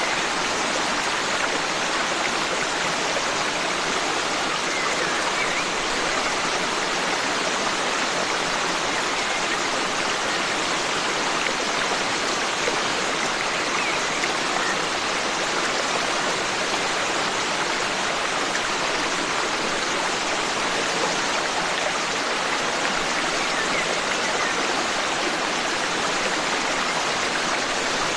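Forest stream: water running steadily over rocks, a constant even rush.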